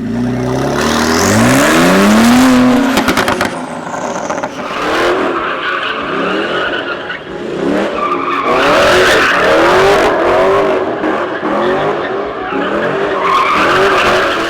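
A high-performance car engine revving hard. The pitch climbs over the first couple of seconds, a quick run of crackles comes about three seconds in, and then a string of short revs rises and falls repeatedly to the end.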